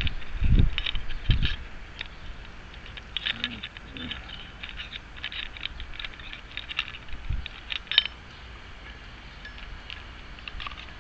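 Small metal clicks and clinks of lock parts and keys being handled and fitted together, with a few dull knocks in the first second and a half.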